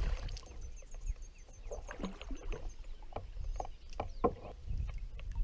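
Short splashes and knocks at the side of a kayak as a hooked bass is pulled from the grass and landed, with a run of faint high chirps in the first half.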